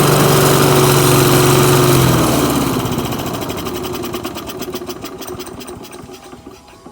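Masport lawn mower's Briggs & Stratton engine running steadily at speed, then slowing about two seconds in, its pitch sinking as it winds down over the next few seconds. The engine is running again after the overfilled oil was drained.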